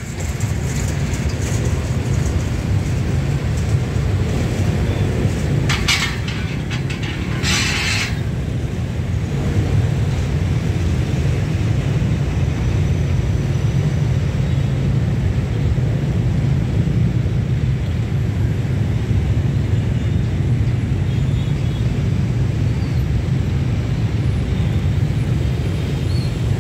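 Freight train of gravel wagons rolling past a level crossing, then continuing road traffic: a steady low rumble throughout, with two short hisses about six and eight seconds in.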